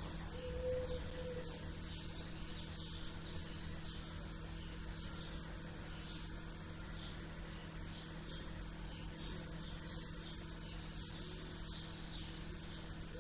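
Small birds chirping, short high chirps repeating about twice a second over a steady low background rumble, with a brief low tone about a second in.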